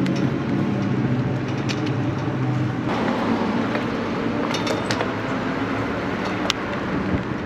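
Electric bike in motion: a steady rumble of tyres and wind with a low hum, broken by a few sharp metallic clinks and rattles from the bike, the loudest about six and a half seconds in.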